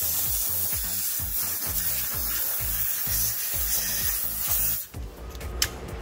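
Steady hiss of a pressurised spray, cutting off suddenly about five seconds in, over background music with a steady beat.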